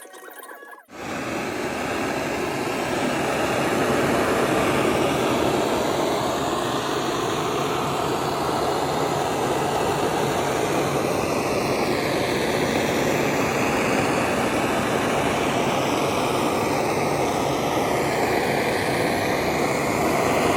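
A machine's loud, steady rushing noise starts abruptly about a second in and runs on evenly.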